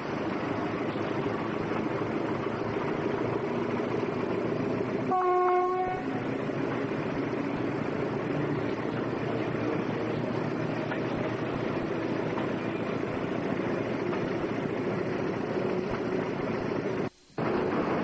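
Train running with a steady rumble. A single short horn blast, one steady tone, sounds about five seconds in, and the sound cuts out for a moment near the end.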